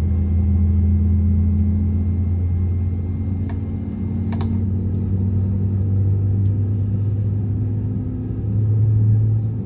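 Airbus A320 cabin drone: a loud, steady low hum from the aircraft's engines and air system, which steps up slightly in pitch near the end. A couple of faint clicks come midway.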